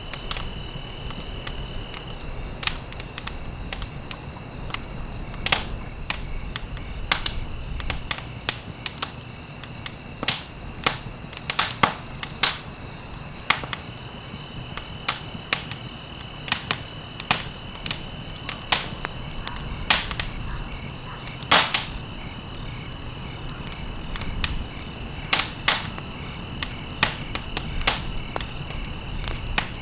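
Wood fire in a fireplace crackling, with sharp irregular pops of varying loudness over a low steady rumble of the flames.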